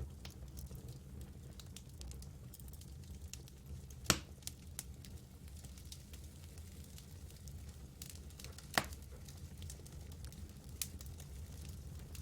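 Campfire burning and crackling, with scattered small snaps and two louder pops, about four seconds in and again near nine seconds, over a steady low rumble.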